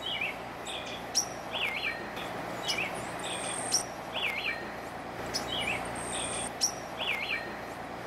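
Birds calling over a steady hiss of ambient noise. The same few short chirps and a two-note whistled call recur in the same order every few seconds.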